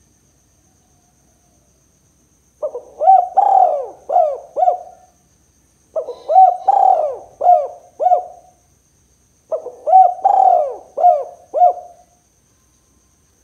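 Spotted dove (tekukur) cooing: three loud phrases a second or so apart, each a run of four or five rising-and-falling coo notes, the kind of call used to lure other doves.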